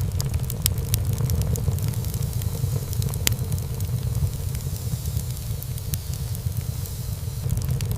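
Wood fire burning in a fireplace: a steady low rumble of flame with frequent sharp crackles and pops of burning wood, one louder pop a little past the middle.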